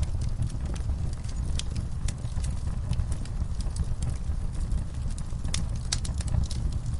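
Wood fire crackling in an outdoor fireplace: irregular sharp pops and snaps over a steady low rumble.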